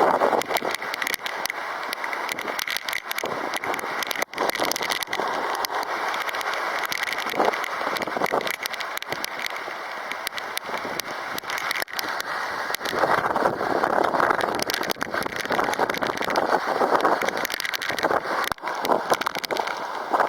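Typhoon wind buffeting the microphone in gusts, with rain crackling on it.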